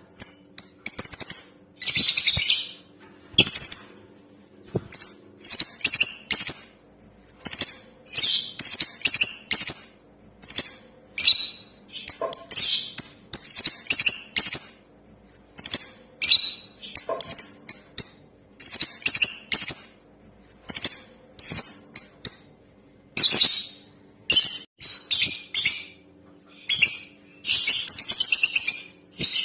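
Female lovebird calling: rapid, high-pitched chirping in short bursts of a second or less, separated by brief pauses.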